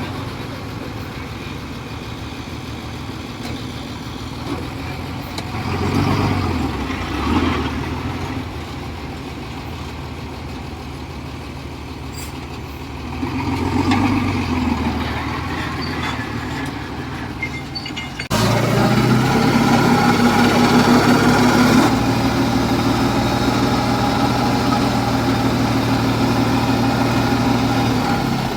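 Heavy diesel engines of earthmoving machines running, revving up under load several times. About two-thirds of the way through, the sound changes abruptly to a louder, steadier engine.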